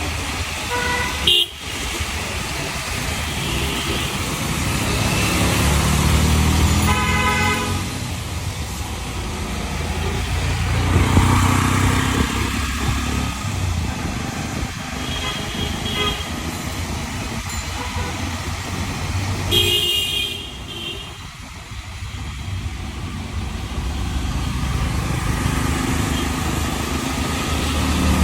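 Busy street traffic with a steady engine rumble, punctuated by short vehicle horn honks: one near the start, one about a quarter of the way in, and a couple more past the middle.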